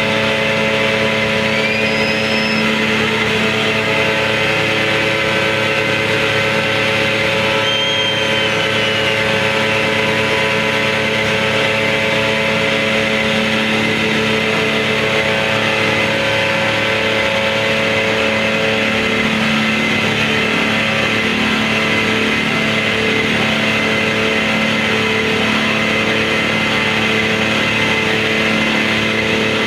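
Dense, loud noise-music drone of many steady layered tones that holds without a break, with two short high arching whistle-like glides about two and eight seconds in.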